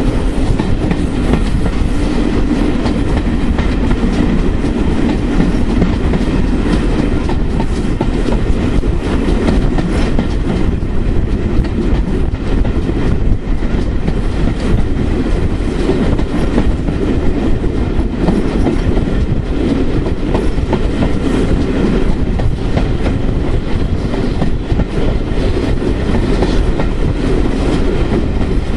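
Steam-hauled passenger train heard from a carriage window, with the coach wheels clattering over rail joints amid steady running noise. The train is hauled by the pannier tank locomotive L99.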